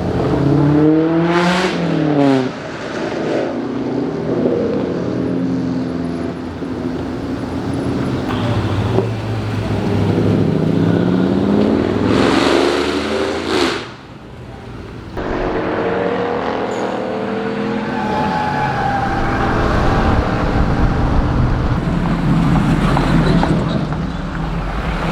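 Car engines revving. The pitch climbs and falls sharply near the start, then rises in one long rev that cuts off about fourteen seconds in. After that the engines settle into a steady low rumble.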